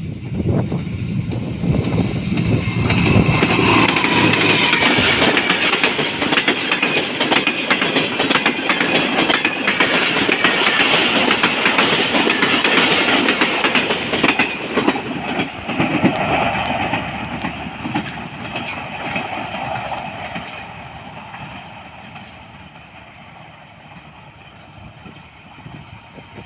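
Passenger express train passing at speed, its wheels clattering rapidly over the rail joints, then fading away as it recedes over the last third.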